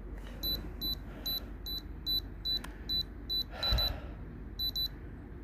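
Fingertip pulse oximeter beeping with each heartbeat: short high electronic beeps about two to three a second, pausing briefly near the end. A soft breath or rustle sounds a little before the pause.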